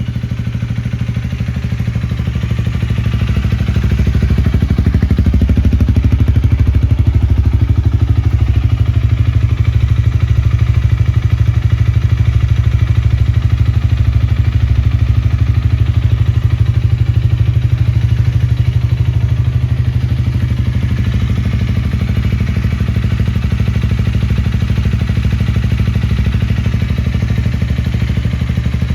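Honda Rebel 250's single-cylinder engine idling steadily through an aftermarket Moriwaki muffler, growing slightly louder in the first few seconds.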